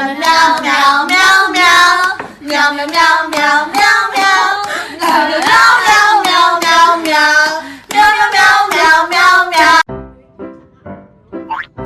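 A high-pitched voice singing a melody in short phrases, cut off suddenly near the end by quieter music with a quick rising glide.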